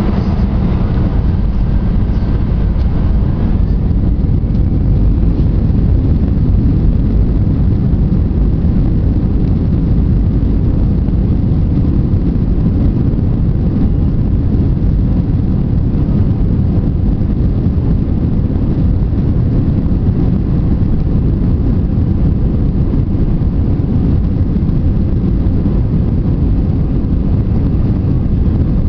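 Airbus A320 jet engines at take-off power, a loud, steady low rumble.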